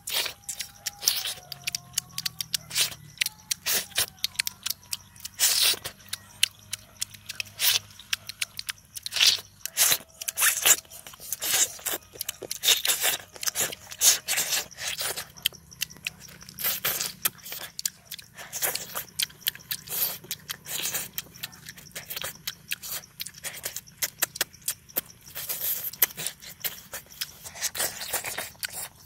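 Close-up chewing and crunching as a person bites into and eats pieces of cooked eel by hand: loud, irregular crunches and crackles in quick succession.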